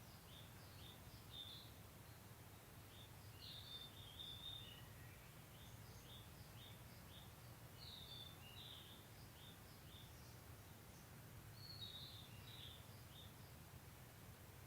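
Small songbirds singing faintly: runs of short high chirps, about three a second, broken by a few quick warbled phrases. A low steady hum runs underneath.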